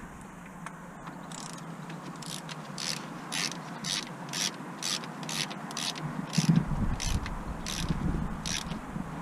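Hand ratchet being worked on a fastener, short bursts of clicking about twice a second, with a few dull knocks partway through.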